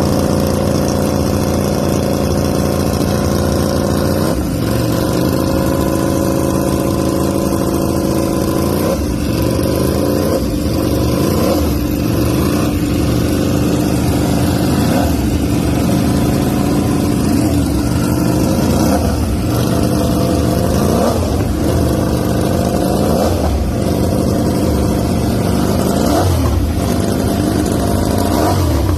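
Ducati Panigale V4 R superbike's V4 engine revved again and again, its pitch sweeping up and back down many times over a steady running note.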